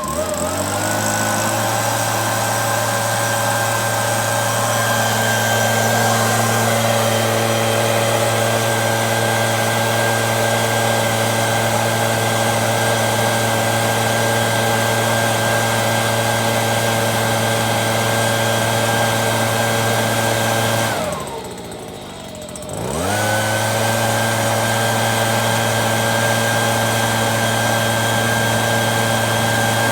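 A small motor humming at a steady pitch: it spins up at the start, runs evenly, winds down and stops about three quarters of the way through, then spins back up about two seconds later and runs on.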